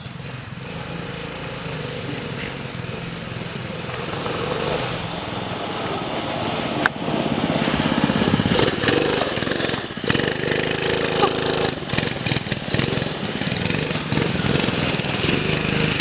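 Small minibike engine running under throttle, getting louder over the first several seconds and staying loud, with a short sharp click about seven seconds in.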